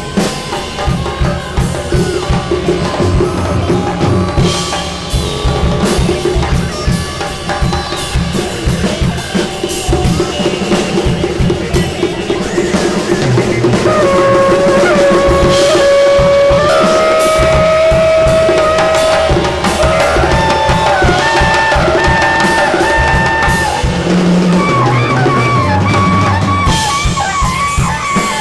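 Free-improvised ensemble music: dense, busy drumming and percussion, joined about halfway by a held pitched line that steps up and down between long notes.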